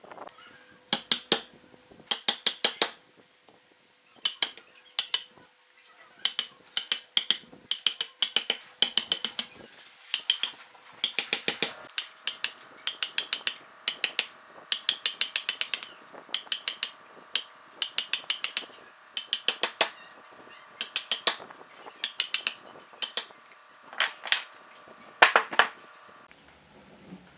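Hammer blows on wood in quick clusters of several strikes, each cluster a second or so after the last. A faint steady hum runs underneath.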